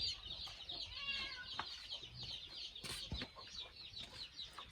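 Chickens clucking over a dense, steady twitter of high chirps, with a few sharp knocks.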